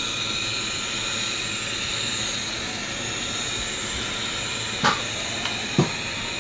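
Diesel locomotive running sound played through the small speaker of an MRC sound decoder in a moving N-scale Kato P42 model, a steady hissy drone. Two sharp clicks come about five and six seconds in.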